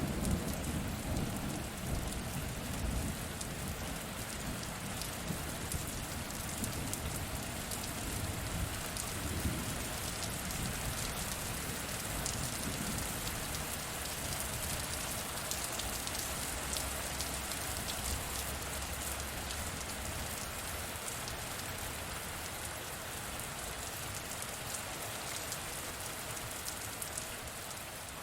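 Steady heavy rain falling and pattering. The last low rumble of a thunder roll dies away in the first few seconds.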